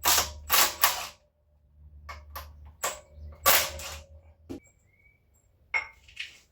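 Tools working on the water pump pulley bolts of a Shelby Cobra replica's engine: a series of short, harsh metallic bursts a second or so apart, one longer burst near the middle, over a faint low hum.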